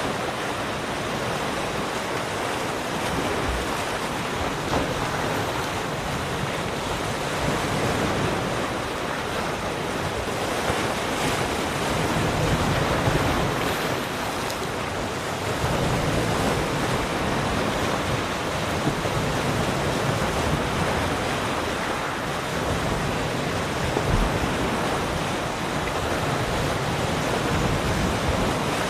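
Ocean surf: a continuous rushing of breaking and washing waves that swells a little louder and eases off every few seconds.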